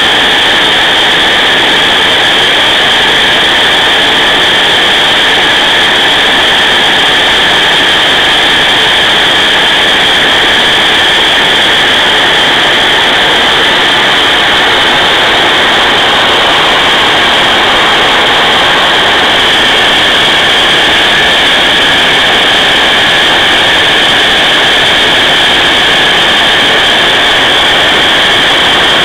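A 1,080 W, 230 V two-stage bypass tangential vacuum cleaner motor running steadily under test. It gives a loud, high, unchanging whine over rushing air.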